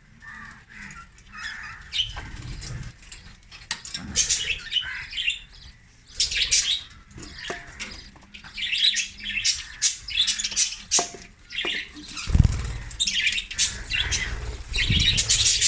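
A flock of budgerigars chattering and chirping continuously, with a few sharp clicks and low fluttering rumbles late on.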